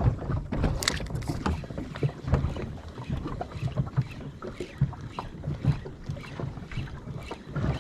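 Water lapping and slapping against the hull of a small drifting boat, with irregular knocks and splashes and wind rumbling on the microphone.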